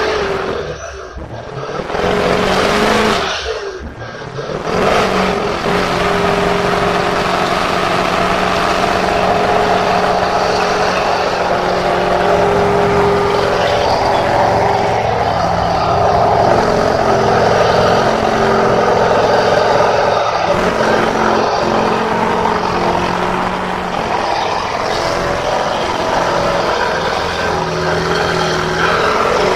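Truck engines running loudly and steadily, with two short dips in the sound in the first few seconds.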